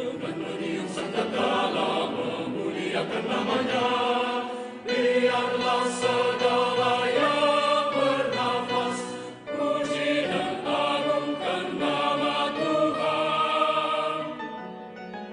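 Mixed choir singing a sustained, slow passage in parts, with short breaks between phrases about five seconds in and again near ten seconds in.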